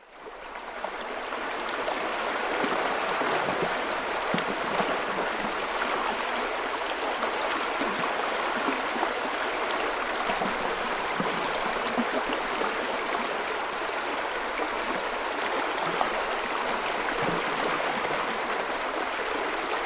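Steady sound of running water, fading in over the first two seconds and then holding level.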